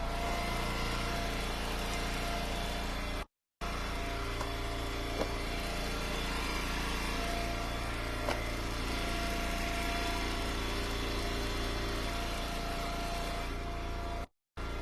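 Engine of an Eastonmade Ultra log splitter running steadily, with a few light knocks. The sound cuts out briefly a few seconds in and several times near the end.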